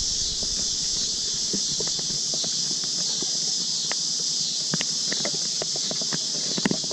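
Scattered light clicks, taps and scrapes of wooden beehive frames and a metal hive tool being handled, over a steady high hiss.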